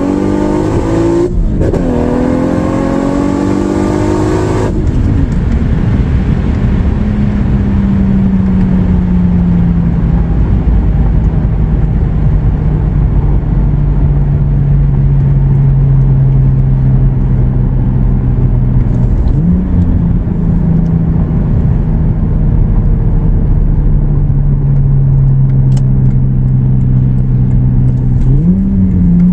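Turbocharged 2JZ inline-six in a Lexus IS300 accelerating hard, its pitch climbing, with a short break at a gear shift about a second in; about five seconds in it lifts off. It then cruises with a steady engine drone that slowly sinks in pitch, with short rises in revs near the twenty-second mark and near the end.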